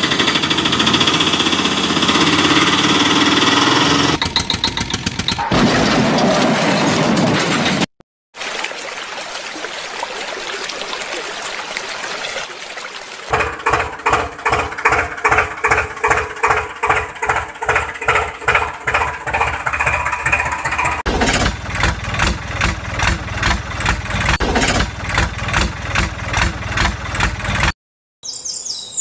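John Deere tractor's diesel engine running and chugging with a regular pulse, heard in several clips joined with abrupt cuts.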